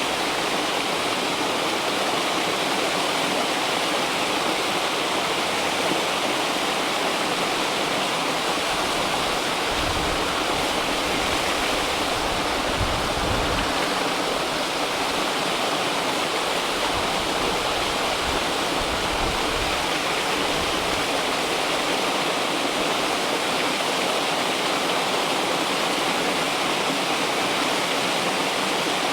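River water flowing in a steady, continuous rush, with a low rumble swelling and fading a few times in the middle.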